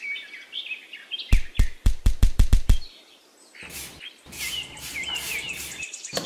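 Birdsong chirping throughout. About a second in, a quick run of about eight sharp knocks; then, from about halfway, a small metal hand trowel scraping across fine sand in several short strokes.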